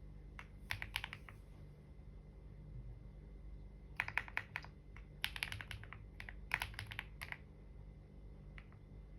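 Typing on a computer keyboard in short runs of keystrokes with pauses between: a burst about half a second in, a longer run from about four to seven and a half seconds, and a couple of stray taps near the end.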